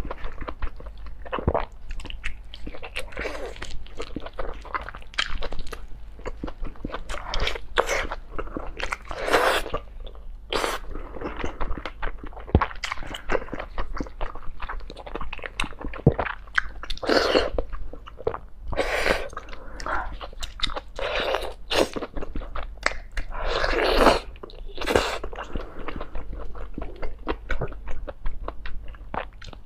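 Close-miked chewing and biting into braised octopus, an irregular run of short mouth and chewing noises picked up by a clip-on lapel microphone.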